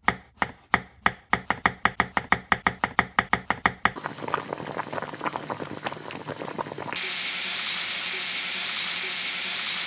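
Rapid, even chopping knocks, about seven a second, for the first four seconds. Then scattered crackling. From about seven seconds in, a steady, loud hissing sizzle of food frying.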